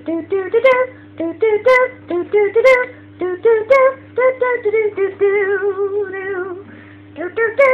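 A high voice singing wordless, quick syllables, each sliding upward, about three a second. Around five seconds in it holds one long wavering note, then goes back to the short syllables. A steady hum runs beneath.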